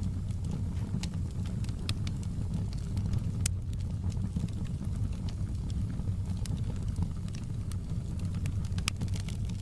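Wood fire burning in a fireplace: a steady low rumble of flames with scattered sharp crackles and pops of burning firewood.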